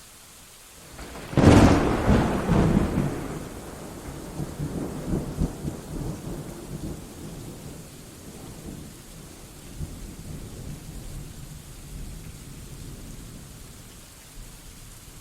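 A thunderclap about a second and a half in, a sudden sharp crack that rolls off into a long low rumble fading away over about ten seconds, over steady rain.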